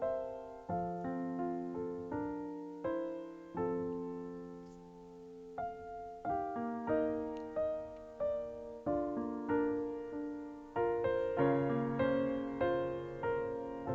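Background music: a gentle solo piano playing, with struck notes and chords.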